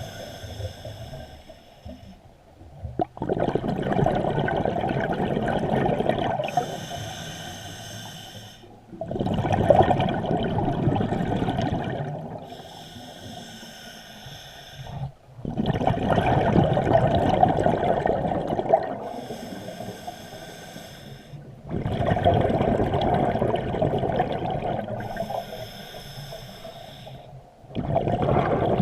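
Scuba diver breathing through a regulator underwater: a hissing inhale through the demand valve, then a loud rush of exhaled bubbles, repeating about every six seconds.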